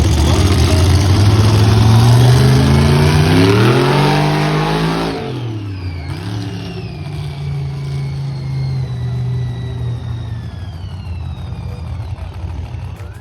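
Monster truck engine revving hard, its pitch climbing for about five seconds, then dropping off sharply and settling to a lower running note while a thin high whine slides down.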